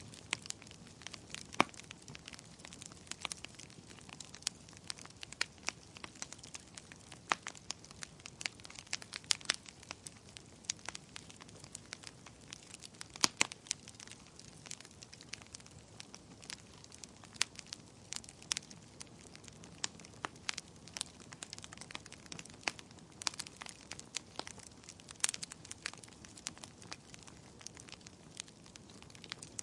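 Bonfire burning, its wood crackling and popping in sharp, irregular snaps over a soft steady hiss of flames.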